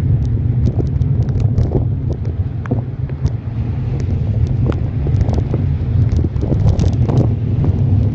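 Wind buffeting the microphone of a bicycle-mounted phone while riding, a heavy, steady low rumble, with many scattered sharp ticks over it.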